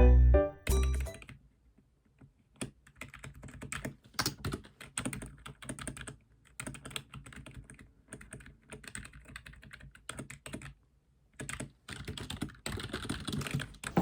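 Someone typing on a computer keyboard: irregular runs of key clicks broken by short pauses.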